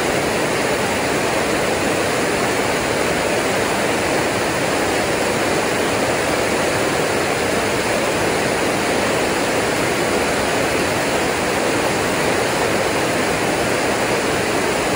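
Creek water rushing steadily, an even, continuous roar of flowing water.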